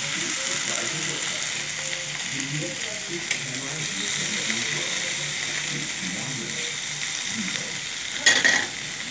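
Onion, ginger and tomato sizzling as they are sautéed in a stainless steel pan, with a spatula stirring them. A steady high sizzle, a small click about three seconds in and a short, louder clatter near the end.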